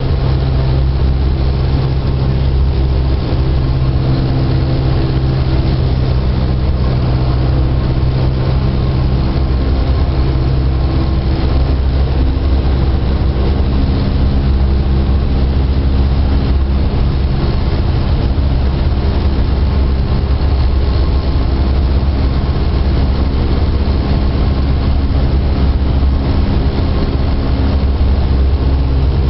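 Cessna 172 Skyhawk's single piston engine and propeller droning steadily as the plane comes in to land, heard from inside the cabin. One of the low tones in the drone drops away about nine seconds in.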